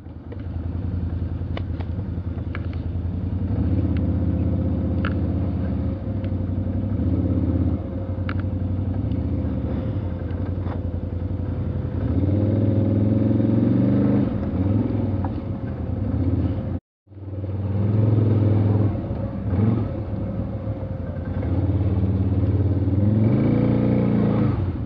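Off-road vehicle engine running under load, its pitch rising and falling as it revs. The sound breaks off briefly about 17 seconds in, then resumes.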